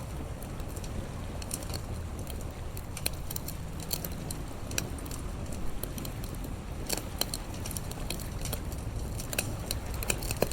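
Campfire crackling: irregular sharp pops and snaps from burning wood over a steady low rumble of the sea.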